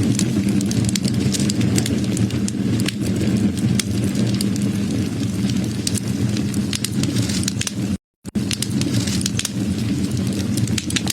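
Wood fire burning: many sharp crackles and pops over a steady low rumble. About eight seconds in, the sound cuts out completely for a fraction of a second.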